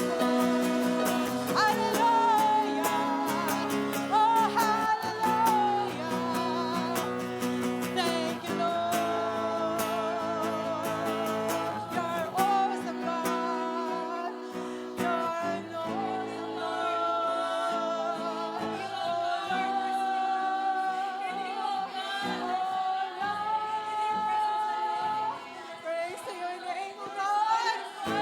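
Live worship music: a singer's held, wavering melody over guitar and keyboard chords.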